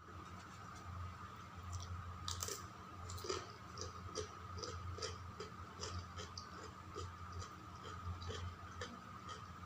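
A person chewing food with soft, moist mouth clicks about twice a second, over a steady low hum.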